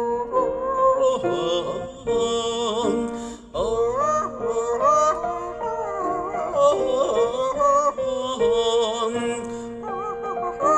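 Wordless high-pitched singing of an ornamented instrumental tune, with wide vibrato, fast trills and quick pitch turns over held lower notes.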